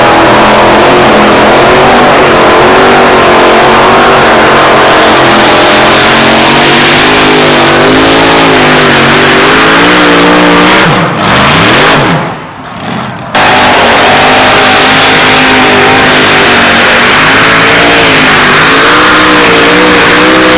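Loud pulling-truck engine running at high revs under load, its pitch wavering up and down as it labors down the track. About eleven seconds in the engine note falls away and the sound briefly drops out, then a high-revving engine comes back.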